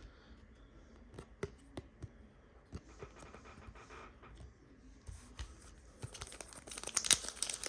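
Trading cards handled with a few light clicks, then from about six seconds in a foil card pack wrapper crinkling and tearing, getting louder near the end.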